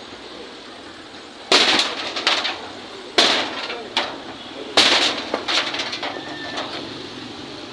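Three loud bangs about a second and a half apart, each followed by smaller knocks and rattling: demolition work striking and breaking down a structure.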